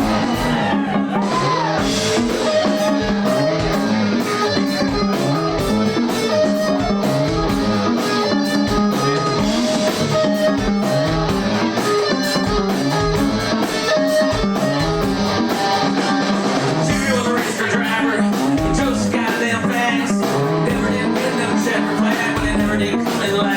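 Rock music: a busy, choppy guitar riff played with a backing band and a steady beat.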